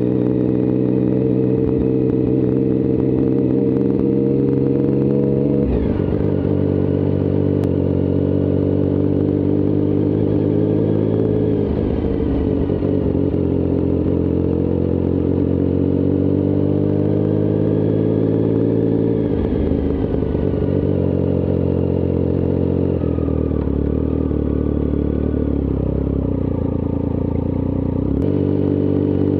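Triumph Speed Triple's three-cylinder engine idling through its exhaust, a steady low running sound whose pitch drifts slightly up and down a few times.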